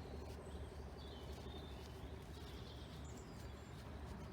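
Faint outdoor background noise with a steady low hum, and small birds chirping now and then.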